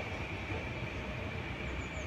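A train moving through the station: a steady rumble with a constant high-pitched whine over it.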